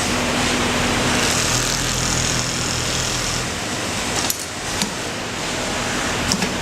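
Automatic pattern sewing machine running and stitching: a steady, dense mechanical clatter with a low hum and a few sharp clicks, easing briefly about four seconds in.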